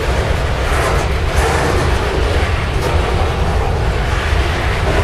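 Freight train rolling past close by, a steady loud rumble of wheels on rail.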